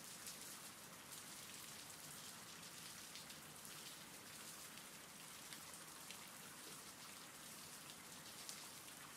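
Faint, steady rain ambience: an even hiss of rainfall.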